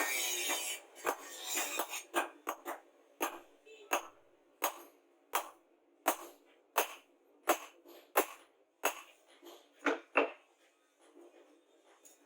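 Hammer striking metal in a steady rhythm, about one sharp blow every 0.7 seconds, stopping near the end; a brief stretch of rough scraping comes first.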